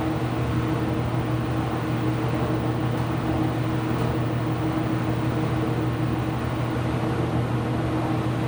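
Steady machine hum from a running IPSO commercial washing machine, with a low drone and a fainter higher tone over a noisy whir.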